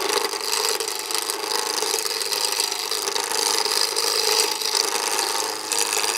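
Turning chisel cutting a spinning square pine blank on a wood lathe: a continuous rough scraping and rattling as the tool takes down the blank, which still has a flat surface and is not yet round. The cut drops out briefly at the very end.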